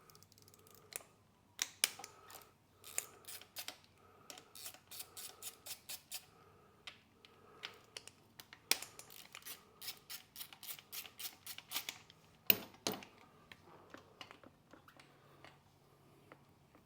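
Sharp metallic clicks and clinks in quick, irregular runs of a few a second, from hand tools working on the front brake rotor of a Stark Varg electric dirt bike as it is being removed. Two louder clanks come about three quarters of the way through.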